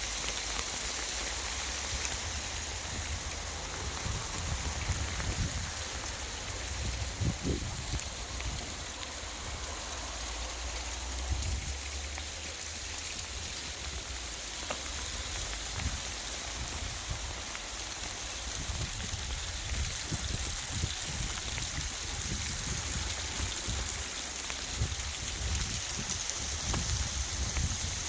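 Rain mixed with sleet falling steadily, an even hiss of drops pattering on surfaces, with an uneven low rumble underneath.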